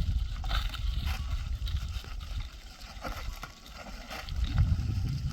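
Wind buffeting the microphone: a gusty low rumble that dies down midway and picks up again near the end.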